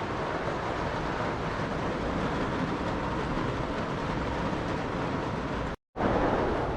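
Steady rush of heavy rain and wind in a thunderstorm. It cuts out for an instant near the end, then comes back a little louder.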